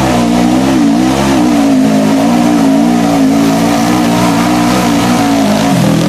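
A UTV side-by-side engine held at high revs under throttle, its pitch wavering slightly and dipping briefly near the end.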